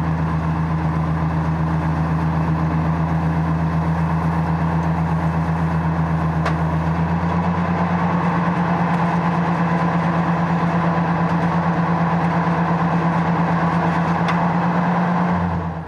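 Tractor engine running steadily under load while baling hay, with a fast, even pulse. Its note shifts slightly about halfway through, and it cuts off suddenly near the end.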